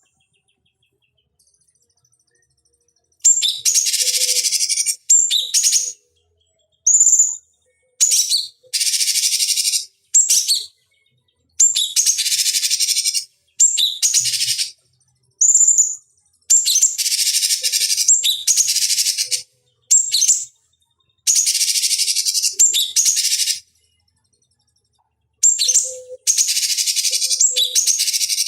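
Cucak cungkok, a leafbird, singing: a series of fast, dense, high-pitched chattering phrases, each lasting a second or two with short pauses between them, beginning about three seconds in.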